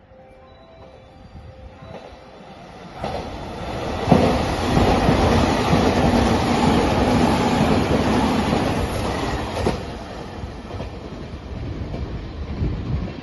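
Shiokaze limited express electric train passing through the station at speed: its noise builds from about three seconds in, runs loud with wheel and track noise for about six seconds as the cars go by, then fades as it draws away.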